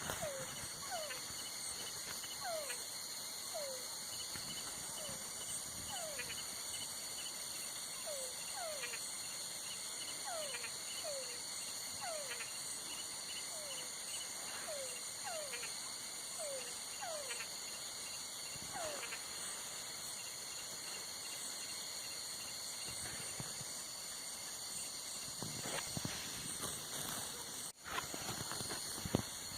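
Night insect chorus of crickets, a steady high-pitched trilling, under short swooping call notes from a frog that repeat about once or twice a second for the first two-thirds, then stop. The sound briefly cuts out near the end.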